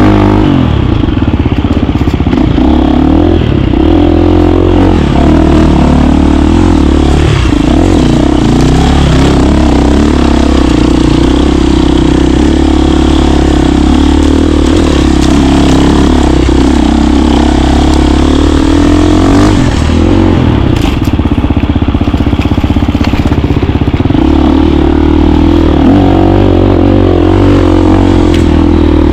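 KTM 350 dirt bike's single-cylinder four-stroke engine running under way, loud, its note rising and falling with the throttle.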